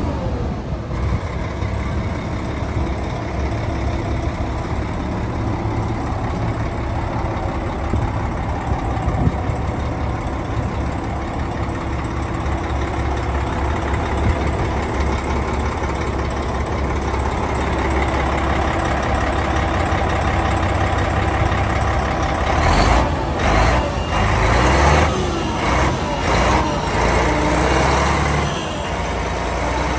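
Hyundai tractor unit's 12.3-litre six-cylinder diesel engine running steadily at idle. From about 22 seconds in comes a run of short, loud bursts of noise, then it settles back to idle.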